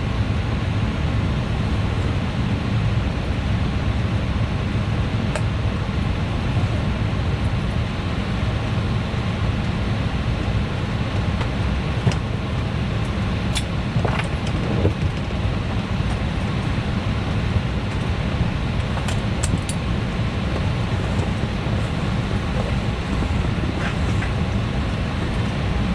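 Steady low cabin drone of an Embraer E175 airliner heard from inside the cabin while parked at the gate, with a few faint clicks.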